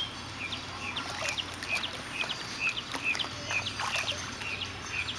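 Birds chirping: short, high calls repeated about three times a second, over faint splashing of water.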